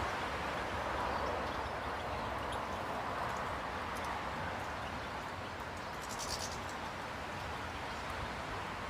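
Outdoor ambience: a steady background hiss, with a brief high bird chirp about six seconds in.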